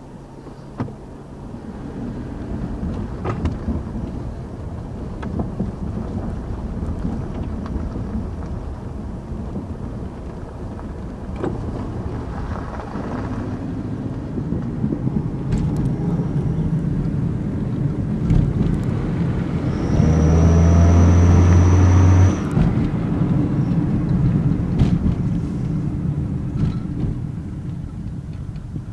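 Toyota Corolla engine running, rising in revs about two thirds of the way in, when a thin high whistle from the exhaust-tip turbo whistler sounds for about two seconds over the engine.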